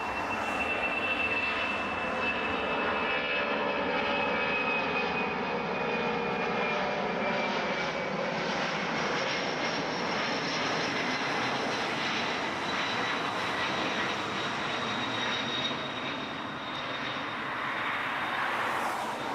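Jet airliner engines running with a steady roar and a high whine that slowly falls in pitch.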